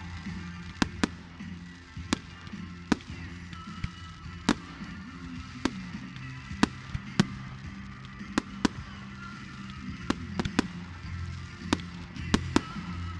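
Fireworks going off in about twenty sharp bangs and cracks at irregular intervals, over steady low background music.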